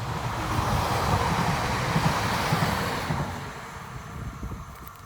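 Train passing close by, its rumble and rail noise swelling to a peak a second or two in, then fading away.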